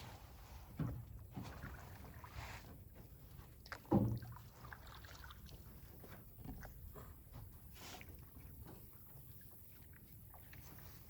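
Canoe on the water: quiet paddle splashes and small taps, with a sharp knock about four seconds in, the loudest sound, and a smaller one about a second in.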